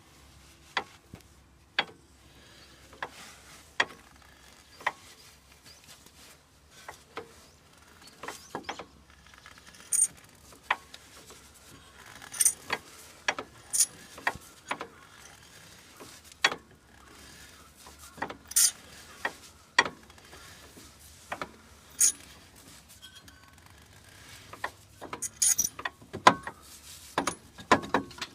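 Irregular metallic clicks, clinks and knocks of hand tools and parts being handled during car repair work, coming singly at uneven intervals, with a denser cluster near the end.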